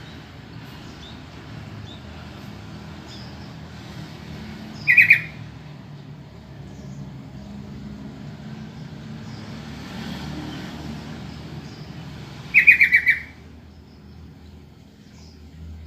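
Sooty-headed bulbul (trucukan) giving two short, harsh, rapidly pulsed call bursts, about seven and a half seconds apart, over a low steady rumble.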